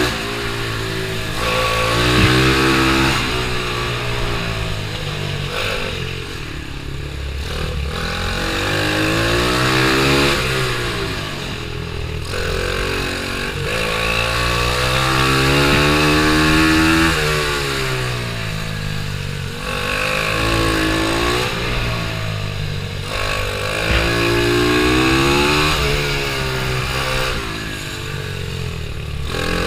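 Pit bike engine revving hard, climbing in pitch as it accelerates and dropping back as it slows, over and over every few seconds, as it laps a tight kart circuit.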